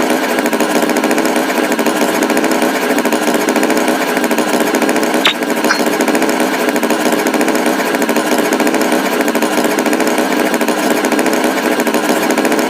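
A motor runs loud and steady with a rapid, even mechanical rattle. A brief high chirp sounds about five seconds in.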